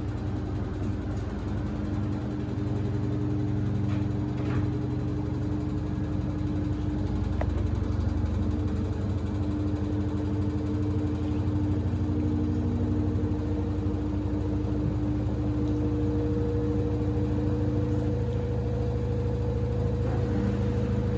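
Samsung WD70T4047CE/UA washer-dryer running a cycle with two pairs of sneakers in the drum: a steady motor hum with a high steady whine over it, growing slightly louder in the first few seconds. A few faint knocks come through.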